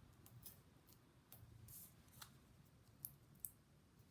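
Faint, scattered light ticks and rustles of paper-craft handling while foam adhesive dimensionals are fitted to a die-cut paper bird.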